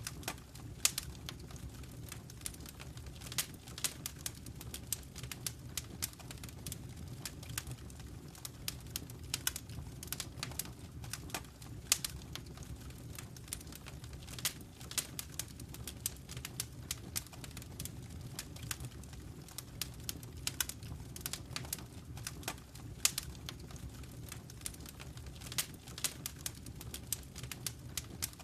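Wood fire crackling in a fireplace: frequent irregular sharp pops and snaps, some louder than others, over a steady low rumble of the burning fire.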